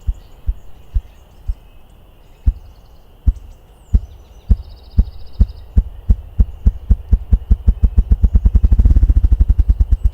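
Male ruffed grouse drumming: deep thumps, one per beat of his wings, slow and spaced at first, then coming faster and faster until they run together into a rapid brrrr roll that stops suddenly near the end. A faint steady insect drone and a few bird chirps sit behind it.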